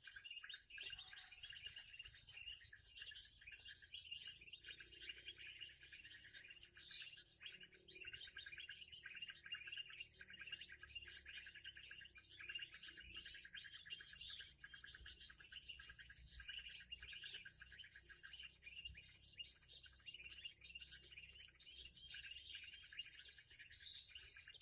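Faint, rapid, continuous high chirping of small birds over a steady high insect drone.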